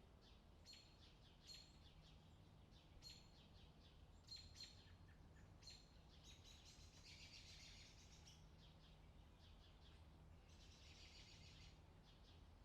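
Faint birdsong: many short, high chirps in quick groups, with two longer rapid trills, one around the middle and one near the end, over a faint steady low hum.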